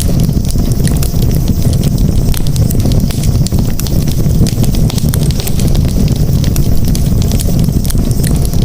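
Campfire crackling, with many quick sharp pops and snaps over a steady low rumble.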